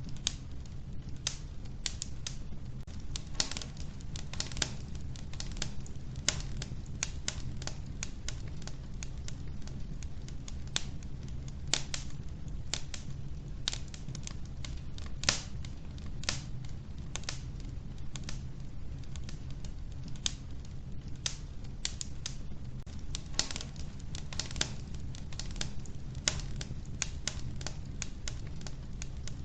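Wood fire burning in a wood stove: a steady low rumble of the flames with frequent, irregular sharp crackles and pops from the logs.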